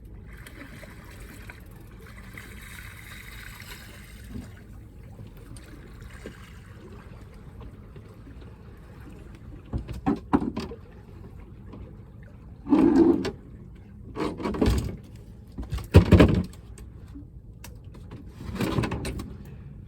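Water lapping steadily around a small fishing boat, then from about halfway a series of loud knocks and scrapes: a freshly landed spotted ray being handled on deck.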